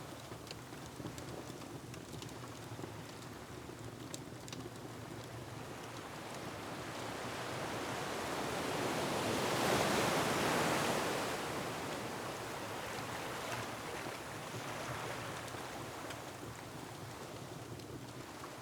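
Ocean waves and wind in a steady wash, with one surge that builds to a peak about ten seconds in and then fades away. A few faint fireplace crackles sound near the start.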